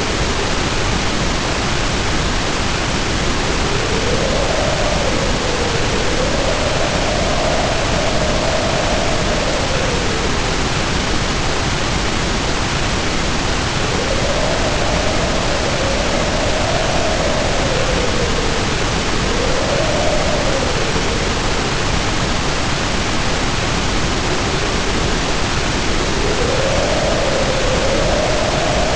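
Heavy rain pouring in a steady, even hiss, with wind howling over it in a wavering tone that rises and falls through several long gusts.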